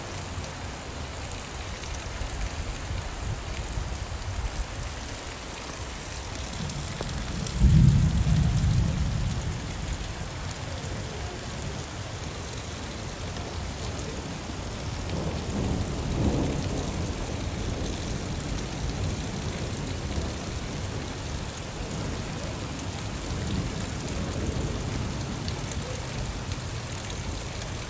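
Steady rainfall with thunder: a loud low rumble rolls in about eight seconds in and fades over a couple of seconds, and a softer rumble follows around the middle.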